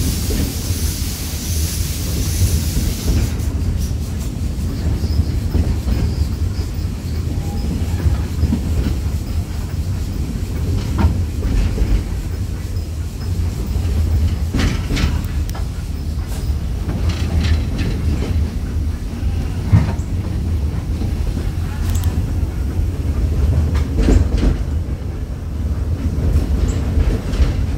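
Walt Disney World Railroad steam train running, heard from an open passenger coach: a steady low rumble with wheels clacking over the rail joints now and then, and a high hiss for the first few seconds.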